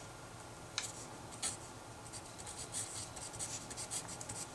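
Pen writing on paper: two light taps, then a run of quick scratchy strokes from about two seconds in.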